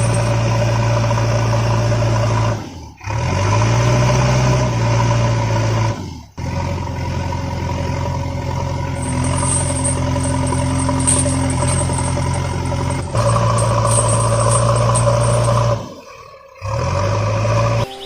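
Tractor engine running steadily at a low pitch. It cuts out briefly about three, six and sixteen seconds in, and twice comes back with a short rise in pitch as it revs up.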